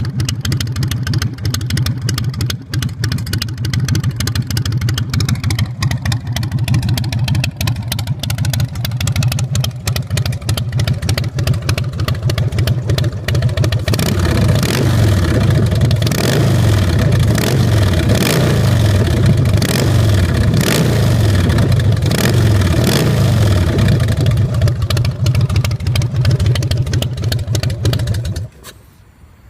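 2005 Big Dog Pitbull chopper's carbureted 117 cubic inch S&S V-twin running through its custom exhaust: idling at first, then revved up and down repeatedly from about halfway through, and shut off just before the end.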